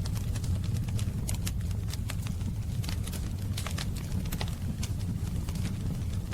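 Wood fire crackling: a steady low rumble of the flames with irregular sharp pops and snaps, several a second.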